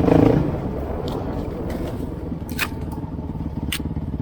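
Trail motorcycle engine running at low revs, a steady low pulsing rumble, with two short sharp clicks in the second half.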